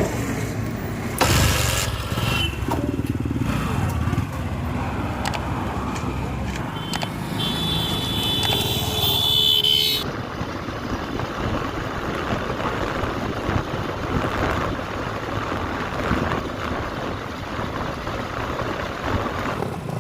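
Diesel engines of a backhoe loader and tractors running at a work site. A high, steady horn-like tone sounds for about two seconds before the midpoint, where the sound changes abruptly to a steadier engine noise.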